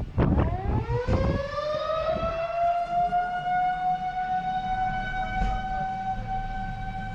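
Outdoor civil defense warning siren winding up, its pitch rising over the first two seconds or so and then holding steady. It is sounding as a storm warning during a severe thunderstorm.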